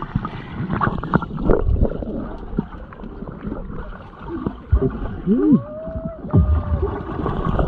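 Water sloshing and splashing close by, with irregular knocks, and a short rising-and-falling voice call about five seconds in.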